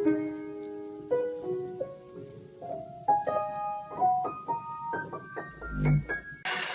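Piano keys pressed one at a time by a hedgehog's feet as it walks along the keyboard: scattered single notes at an uneven pace, climbing in pitch as it goes. A low thump comes near the end.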